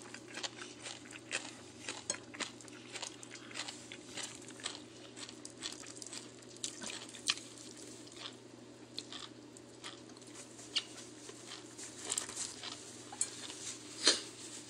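A person chewing food close to the microphone, with many scattered mouth clicks and smacks over a faint steady hum. A sharper click comes near the end.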